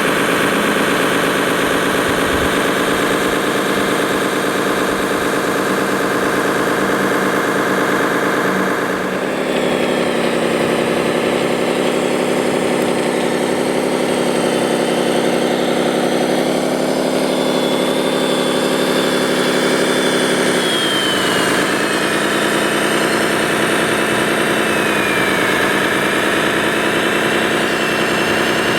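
Engine sound of a radio-controlled construction vehicle running steadily. It rises in pitch about nine seconds in, dips and climbs back about twenty-one seconds in, and a faint high whine wanders through the second half.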